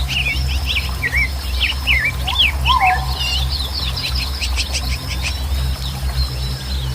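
Wild birds calling: a string of short swooping whistled notes, then a fast chattering run of chirps near the middle. Beneath them run a steady low rumble and a thin steady high tone.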